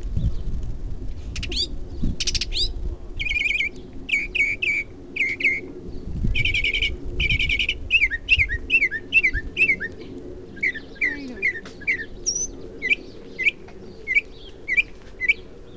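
A bird singing a long, varied string of phrases, each repeated several times before it switches to the next, like a car alarm cycling through its sounds. It moves from rapid buzzy trills to down-slurred whistled notes, and near the end gives single sharp down-slurred chirps about twice a second. A low rumble, likely wind on the microphone, runs under the song at the start and again about six seconds in.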